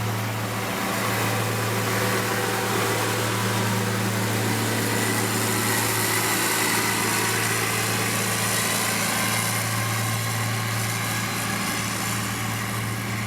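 Heavy road-construction machine's engine running steadily, with a constant low hum.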